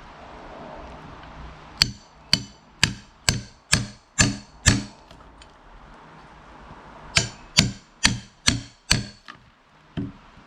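Hammer blows ringing on metal, about two a second: a run of seven, a pause, a run of five, and one last blow near the end. They come from hammering into a log to dig out a nail found with a metal detector.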